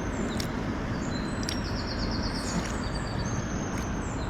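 Steady low outdoor rumble by the river, with a small bird's high chirps and short trills repeating over it and a few faint clicks.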